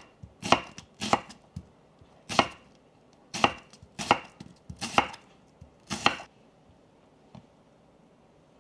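Knife chopping on a cutting board: about seven sharp strokes at uneven intervals, roughly one a second, stopping about six seconds in.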